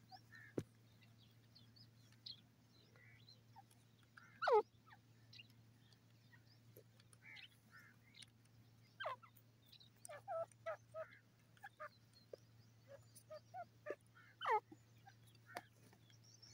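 Grey francolin calling: two loud calls that sweep steeply down in pitch, about ten seconds apart, with short softer chirps and clicks in between.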